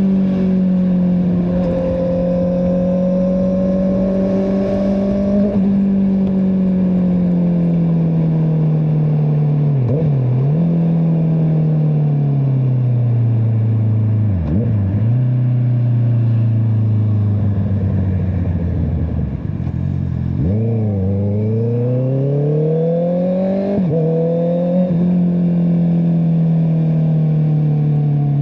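Honda CBR650R's inline-four engine through an Akrapovic exhaust, running under way. Its note falls slowly as the bike rolls off, dips sharply twice, then climbs in several quick rising sweeps, each broken by a short drop, before easing off again near the end.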